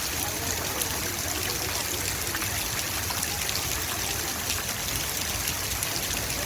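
Steady rush of running water with faint scattered ticks.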